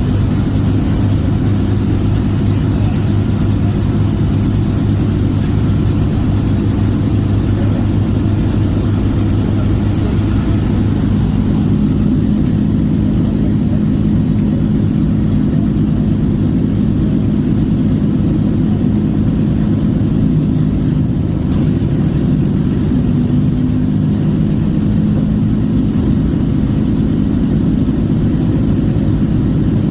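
Avro Lancaster bomber's piston engines running steadily in a pre-flight engine check, a loud low drone. About twelve seconds in the note shifts as the engine speed changes.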